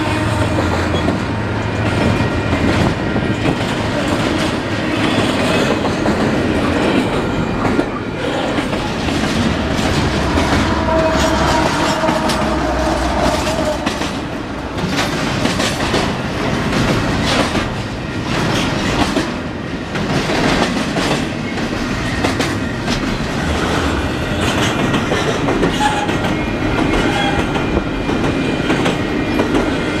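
Freight train cars rolling past, their steel wheels clacking over the rail joints in a steady, dense rhythm, with a few brief faint wheel squeals.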